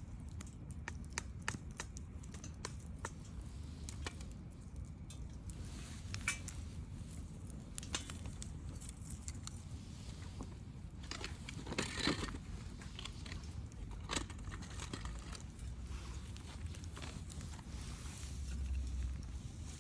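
Wood campfire crackling, with irregular pops and snaps from the burning wood and a louder burst of snaps about twelve seconds in.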